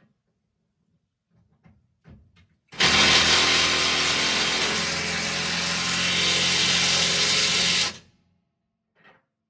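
A handheld power tool runs steadily for about five seconds, starting about three seconds in and stopping sharply, with a few light clicks and knocks of tool handling before it.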